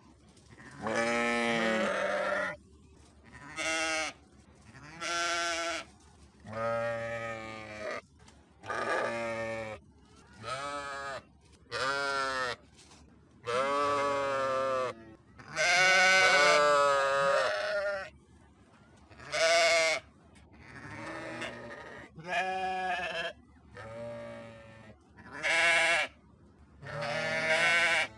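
Sheep bleating over and over, about fifteen separate wavering bleats with short pauses between them, some short and some drawn out, the longest around the middle.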